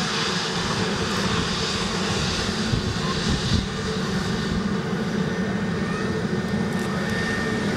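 Jet airliner's engines running steadily as it moves along the runway, with wind buffeting the microphone.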